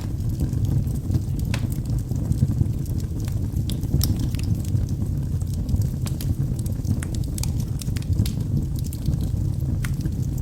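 Wood fire burning in a fireplace: a steady low rumble of the flames with frequent sharp pops and crackles from the burning logs.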